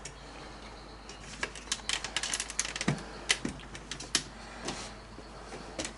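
A run of irregular sharp clicks and taps from objects being handled and set down. It starts about a second and a half in and thins out near the end.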